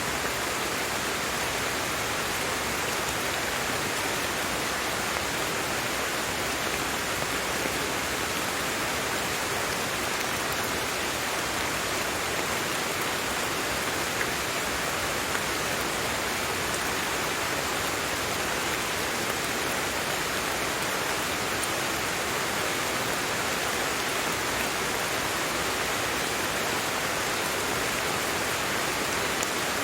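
Steady rain falling, an even rushing hiss with no let-up or change.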